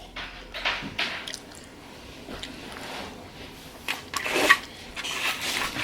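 Close-miked mouth sounds of someone chewing food, in irregular bites and smacks.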